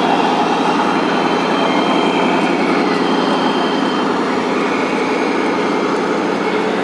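Steady engine-like running noise from radio-controlled model trucks, with faint higher whines drifting up and down.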